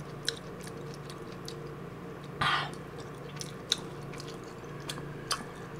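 A person chewing a mouthful of kimchi stew and rice, with many small wet mouth clicks and smacks. There is a short breathy rush about two and a half seconds in, over a faint steady hum.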